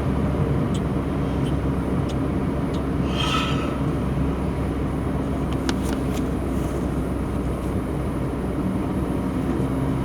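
Steady low engine rumble with a constant hum, and a few faint clicks.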